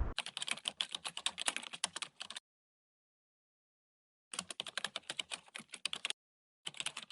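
Keyboard typing sound effect: rapid clicking keystrokes in three runs, the last one brief, with dead silence between them.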